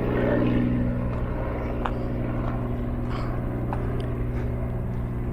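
Tour helicopter droning steadily overhead, unseen above the tree canopy, easing off slightly as it moves away.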